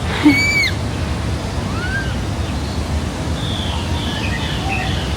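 Steady rushing outdoor noise, like wind on the microphone. A short high-pitched squeal comes at the start, a single rising call about two seconds in, and faint high chirps scatter through the second half.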